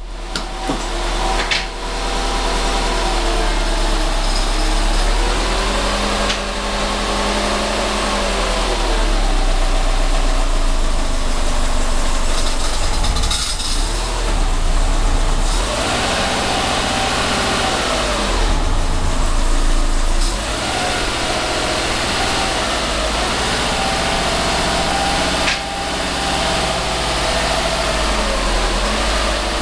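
2010 Subaru WRX's turbocharged flat-four running at low revs while pulling away slowly with the clutch being eased out, engine speed rising and falling several times. A few sharp clicks come through over it: the clicking and grinding noise from the clutch when starting to move.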